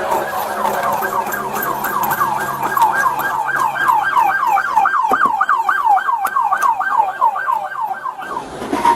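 Police car siren in fast yelp mode, its pitch sweeping up and down about four times a second, cutting off shortly before the end.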